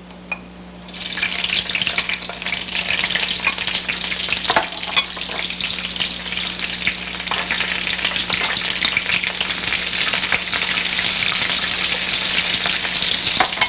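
Sliced peppers hitting hot olive oil in a skillet: a frying sizzle starts about a second in and keeps going steadily, with occasional clicks as the peppers are stirred.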